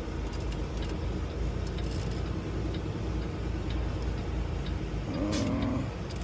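Semi truck's diesel engine and road noise rumbling steadily inside the cab, with a light regular ticking from the turn signal as the truck gets ready to pull off. A short wavering tone sounds briefly about five seconds in.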